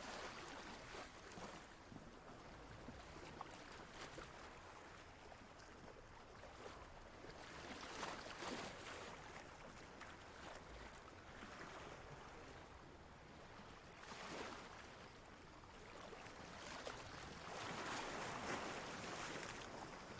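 Ocean waves washing in: a soft, steady rush of water that swells several times, most strongly near the end.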